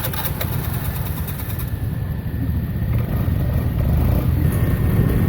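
Small rented motorbike's engine running as it rides, its hum growing louder toward the end.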